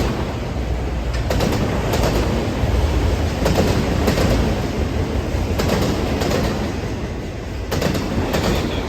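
Norfolk Southern freight train cars rolling past, with a steady rumble. The wheels clack over a rail joint in pairs, one pair about every two seconds, as each car's trucks go by.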